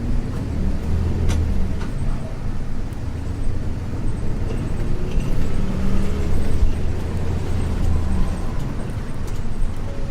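A 1994 Isuzu U-LV224N route bus heard from inside the cabin: its 6QB2 diesel engine running steadily with a low drone. A short click sounds about a second in.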